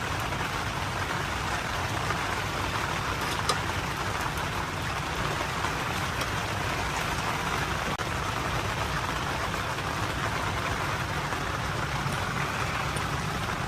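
Steady rain falling, an even unbroken hiss of rain on surfaces.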